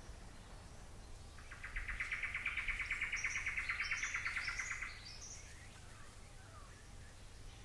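A bird's fast, even trill, starting a little over a second in and lasting about three and a half seconds, with short higher chirps over its second half.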